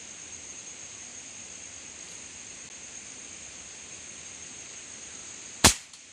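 Steady high-pitched insect chirring in the forest. Near the end comes a single sharp, loud air-rifle shot.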